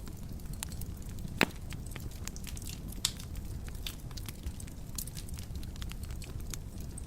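Wood fire in a fireplace crackling, with dense small snaps over a low steady rumble of the flames. One loud pop comes about a second and a half in, and a smaller one about three seconds in.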